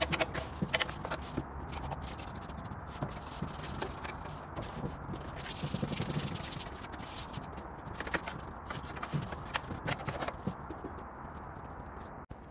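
Hand work in a workshop: irregular scraping and rubbing, broken by many short clicks and knocks.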